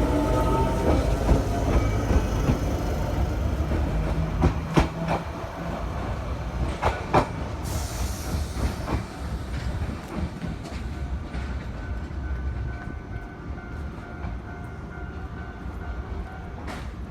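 Narrow-gauge electric train running past, its wheels clicking over rail joints, the rumble fading away as it moves off.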